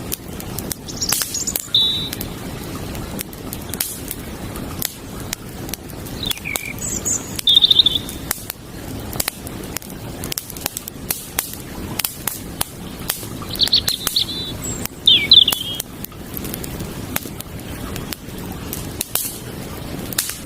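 Campfire crackling with frequent sharp pops over a steady low rush of running creek water. A small bird chirps in short phrases about a second in, around seven seconds, and again around fourteen to fifteen seconds.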